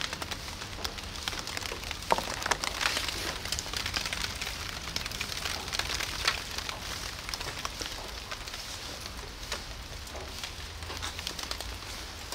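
Light rain pattering steadily, with many scattered sharp drips and ticks, busiest in the first half.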